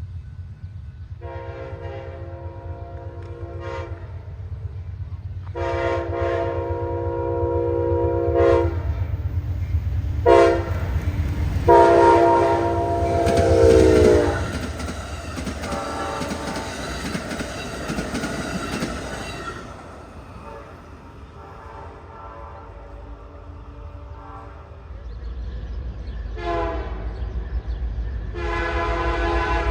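Locomotive multi-chime air horn blowing the grade-crossing signal of long, long, short, long. The last blast drops in pitch as the train passes, over the steady rumble of the train. Near the end it sounds again, a short blast and then a long one.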